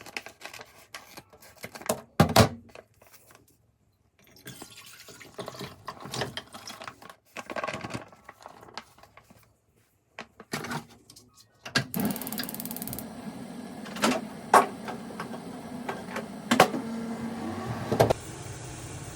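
Dishes and utensils clattering at intervals. From about twelve seconds in, a steady rush like a kitchen tap running, with sharp clinks of dishes over it.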